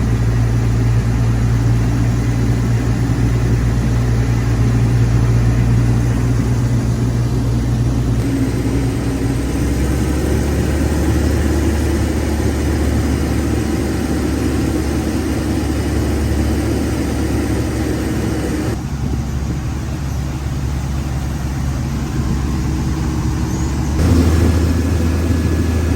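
Speed boat's engine running steadily under way, a loud low drone with rushing water and wind noise. The engine note changes suddenly a few times.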